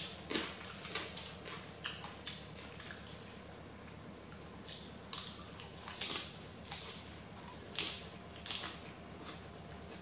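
Close-miked eating of yellow noodles: irregular wet chewing and mouth sounds, a string of short clicks and smacks, with a few louder ones in the second half.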